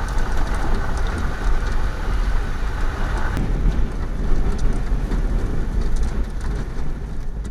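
Storm wind and heavy rain, a steady rushing noise with a deep rumble of wind buffeting the microphone.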